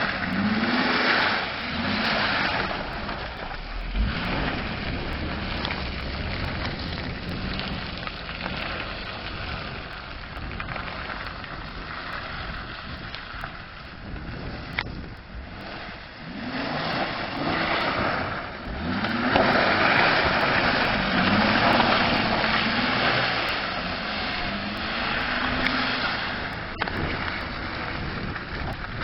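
Acura MDX's 3.7-litre V6 engine revving up and down under load while driving off-road, over a steady rumble of tyre and wind noise. The revs rise and fall at the start, settle, then climb and swing again past the halfway mark.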